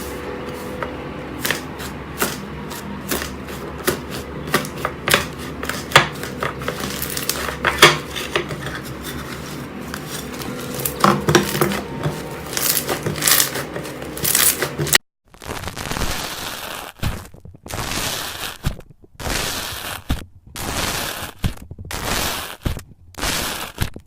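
Slime being handled by hand, with sharp sticky clicks and pops over a steady background hum. About fifteen seconds in, after a cut, it changes to a run of separate squishing presses, roughly one a second with short silences between.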